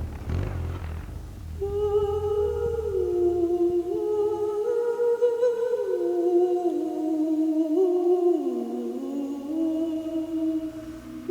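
A single voice humming a slow melody in held notes with short slides between them; a low motorcycle rumble underneath fades out in the first few seconds.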